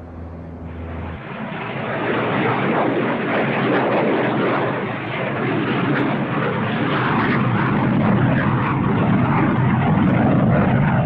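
Antonov An-22's turboprop engines, with contra-rotating propellers, running as the aircraft passes; the sound swells over the first couple of seconds, then holds steady.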